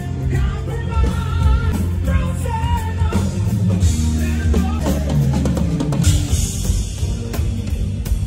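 Live rock band playing at a sound check: drum kit and bass with guitar, and a singer whose wavering sung notes stand out in the first few seconds.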